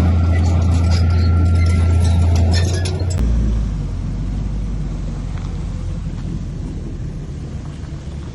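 Heavy earthmoving machine's diesel engine running with a loud, deep, steady drone. About three seconds in, the sound changes abruptly to a lower, quieter rumble.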